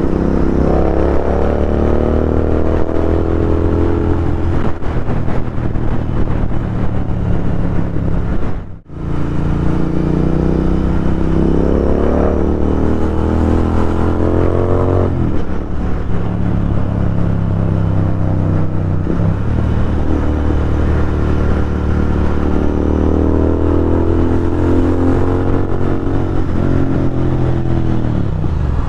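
Royal Enfield Continental GT 650's parallel-twin engine running through a loud Thrive aftermarket exhaust while riding. The engine note climbs in pitch through long pulls and drops sharply as the throttle closes, about halfway through and again near the end. The sound cuts out briefly a little before the middle.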